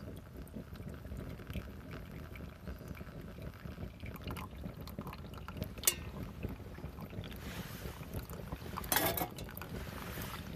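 Wood fire crackling in a camp fireplace, with scattered pops over a low rumble and one sharp pop about six seconds in. A short rushing hiss comes about nine seconds in.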